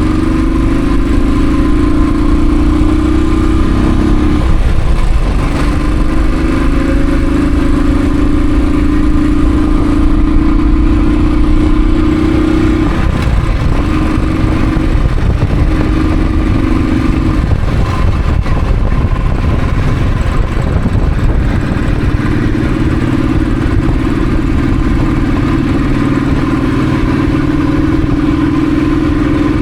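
Royal Enfield Thunderbird's single-cylinder engine running under way, its steady note easing off a few times, briefly about five seconds in and for several seconds past the middle, before picking up again near the end.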